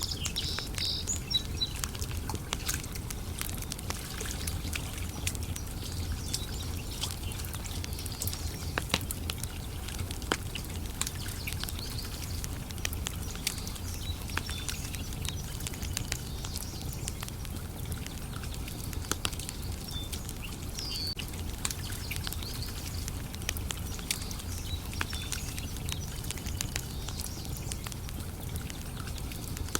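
Campfire wood crackling with frequent small sharp pops, over a steady low rumble. Birds chirp now and then, a few times near the start and again about two-thirds of the way through and near the end.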